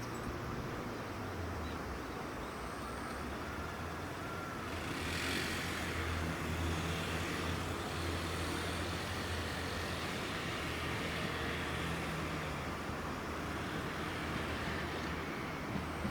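Steady low hum of a vehicle running, with a swell of rushing noise about five seconds in.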